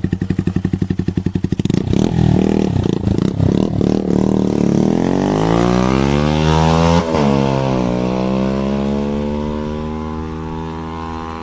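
Bajaj Pulsar NS motorcycle's single-cylinder engine and exhaust: a few seconds of fast, even exhaust pulses and short blips of throttle, then a long rev rising in pitch that drops off sharply about seven seconds in and winds slowly back down.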